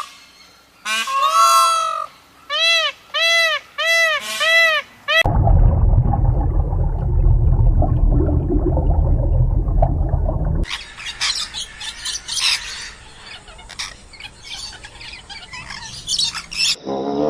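A sequence of different animal sounds: a run of five or six short, rising-and-falling honking calls, then a loud low rumbling noise for about five seconds, then a fainter high crackly chatter.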